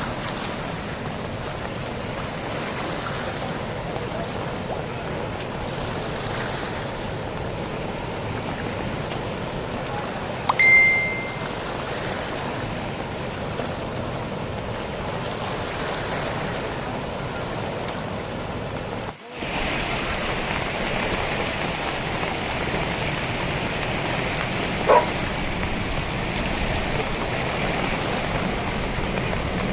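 Steady rushing of the flooded Kali Gandaki river. A short, high tone sounds about a third of the way in. The rushing drops out for an instant just before two-thirds and comes back louder and brighter. A sharp click sounds near the end.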